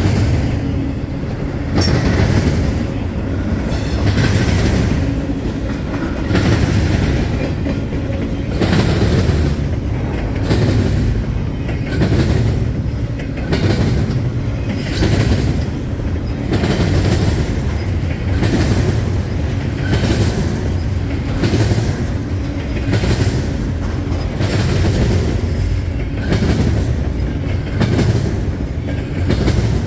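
Freight train cars rolling past at speed, a steady low rumble with wheels clacking over rail joints in a regular rhythm about every second and a half.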